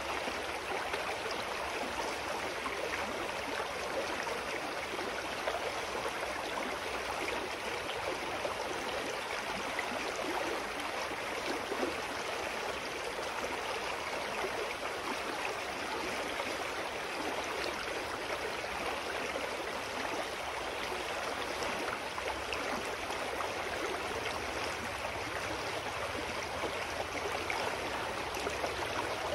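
A shallow, clear mountain stream flowing over rocks: a steady rushing and gurgling of water.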